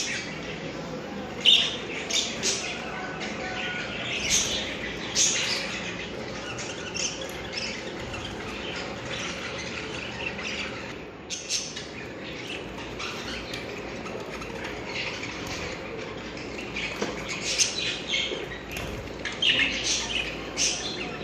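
Budgerigars giving short chirps and squawks in scattered clusters, over a steady low background noise.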